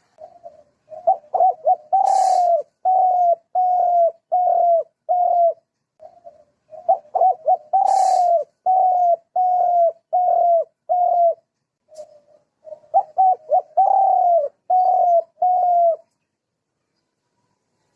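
A bird calling in three bouts of short cooing notes, about two a second. Each bout has one longer, louder note near its start, the first two with a brief hiss.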